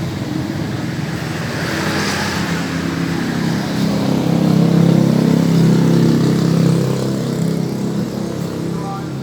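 Motorcycle engine running, tuned for a crisp, growly exhaust note. It is revved up to a peak around the middle, then eases back down.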